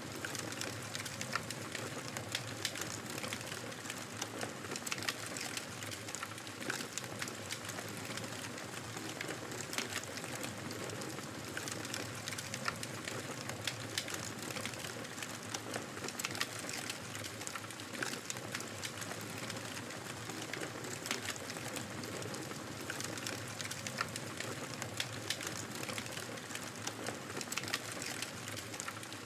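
Wood fire crackling steadily in a fireplace: a constant low hiss dotted with many small sharp pops and snaps.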